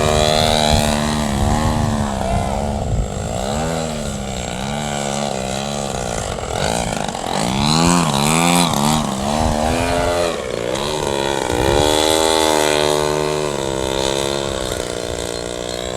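Engine and propeller of a radio-controlled Ultimate aerobatic biplane in flight, the pitch rising and falling again and again as the throttle changes and the plane passes by.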